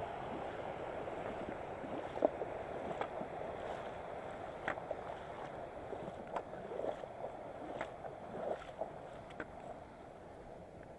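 Rushing river water, a steady hiss, with scattered short clicks and knocks across it.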